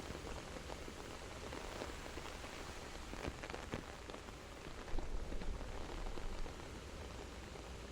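Steady rain falling, an even patter with scattered louder drop taps, a few of them bunched about three seconds in.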